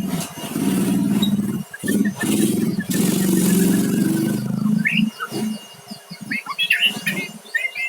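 White-rumped shama (murai batu) calling, a run of quick chirps in the middle and then sharper, louder notes in the last few seconds. A low vehicle engine hum runs under the first five seconds and then fades out.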